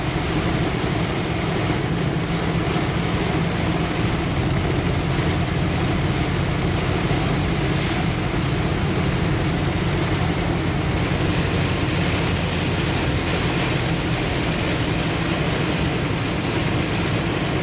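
Heavy rain beating steadily on a truck's roof and windshield, heard from inside the cab, over the steady low hum of the truck's engine and tyres on the wet road.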